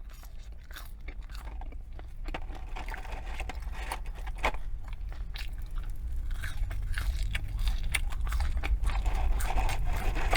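Close-miked biting and chewing of McDonald's French fries: many small crisp crunches and wet mouth sounds, growing louder toward the end.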